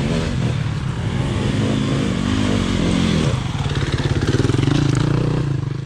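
Dirt bike engine revving, its pitch rising and falling, then climbing to a higher, steadier pitch about three seconds in; the sound fades out at the very end.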